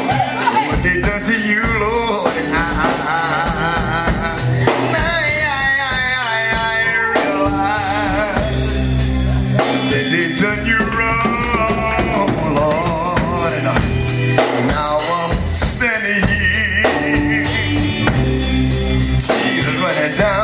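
Gospel quartet music: male voices singing with wavering, held notes over bass, drums and tambourine.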